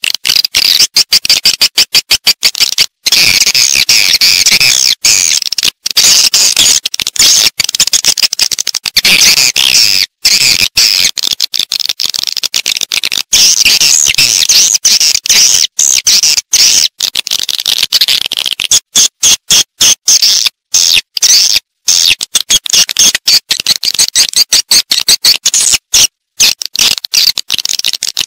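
Edible-nest swiftlets twittering in a dense, loud chorus of high chirps, broken by many short gaps. This is a swiftlet-house lure call, played to draw swiftlets in to roost and nest.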